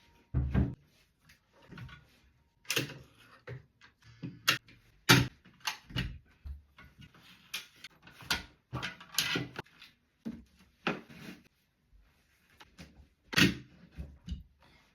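A vintage sewing machine being handled and packed away: a string of about a dozen irregular knocks, clunks and clicks as its parts and case are moved and set down.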